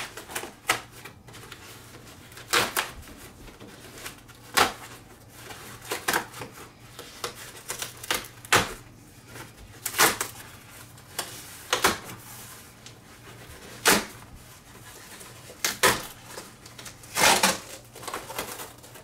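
A cardboard shipping box being opened and handled: irregular sharp clicks, snaps and short scrapes of cardboard, coming every second or two.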